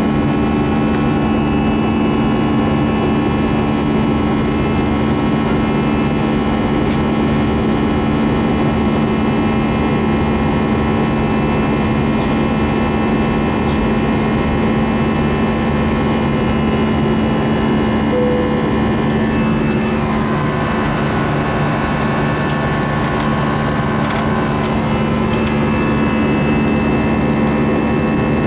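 Airbus A320 jet engines and airflow heard from inside the passenger cabin: a steady rush with several steady humming tones, some of which shift slightly about twenty seconds in.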